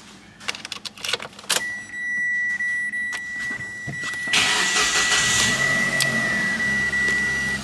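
Key clicks and rattles at the ignition, then a steady high electronic warning tone sounds while the Mitsubishi Triton ute's engine is cranked about four seconds in and catches at once, settling into a steady idle. It starts easily, a sign the engine is in good order.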